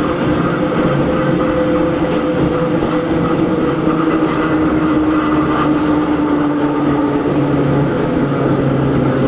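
Interior running sound of a Hakone Tozan Railway Moha 1 electric car with nose-suspended SE121-A traction motors, heard from on board. There is steady wheel and rail noise, and a whine from the motors and gearing falls slowly in pitch as the car slows.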